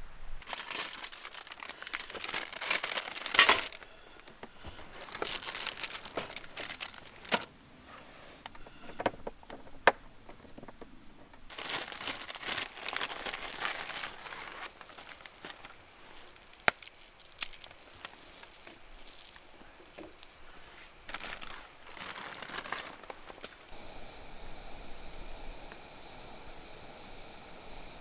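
Rustling and crinkling of something being handled, in irregular bursts with a few sharp clicks. Near the end a steady high chirring of insects takes over.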